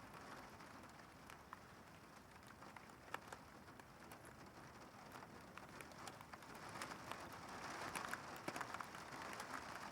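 Rain falling during a severe thunderstorm, with scattered drops ticking sharply, growing louder in the second half.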